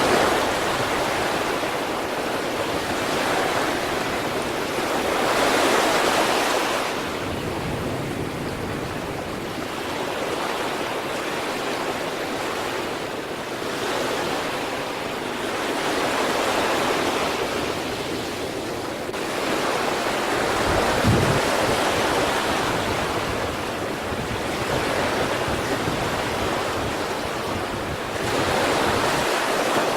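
Sea waves breaking on the shore of the East Sea, a constant wash that swells and falls back every few seconds as each wave comes in. A short low thump about two-thirds of the way through, likely wind hitting the microphone.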